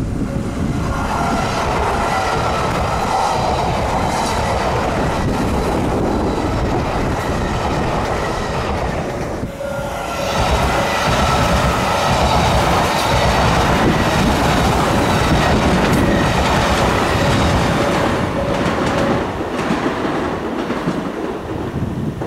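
Yamagata Shinkansen train running close by: the rumble and clatter of wheels on rail with a steady whine over it. The sound eases briefly about nine seconds in, swells again, and fades near the end.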